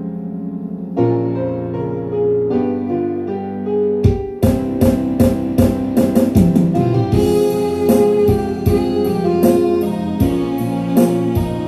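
Instrumental backing music with no singing. Held electronic keyboard chords open it, then about four seconds in a steady drum beat comes in under the band.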